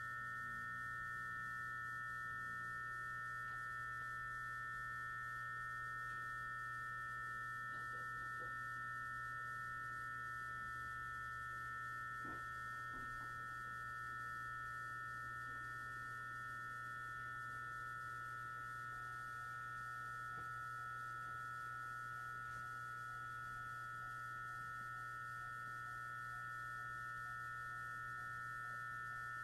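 Steady electrical whine and hum inside a stationary JR 209 series electric train: a cluster of high tones over a low hum from the train's onboard electrical equipment, with a couple of faint clicks.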